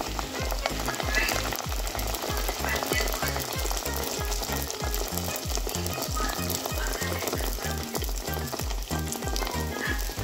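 Pieces of fry-bake dough sizzling and crackling in hot oil, a steady dense spatter of tiny pops. A music track with an evenly repeating bass line plays under it.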